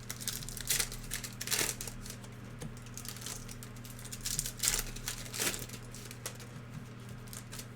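Trading cards and their foil pack wrappers being handled: irregular light snaps, clicks and crinkles of card stock and wrapper, a few sharper ones among them.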